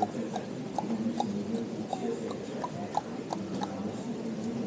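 Airport gate ambience: a low murmur of waiting passengers' voices with scattered small clicks and taps, a few a second.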